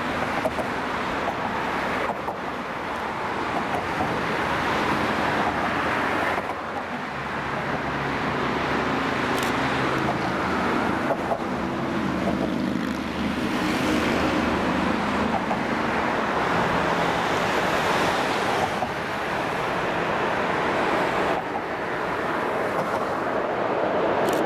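Steady road traffic noise with wind on the microphone. A deeper engine hum rises out of it from about seven seconds in and fades again about sixteen seconds in.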